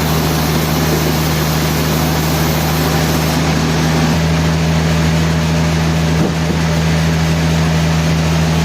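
Sawmill machinery running steadily at constant speed: a loud, even engine-like hum with a hiss over it, and one light knock about six seconds in.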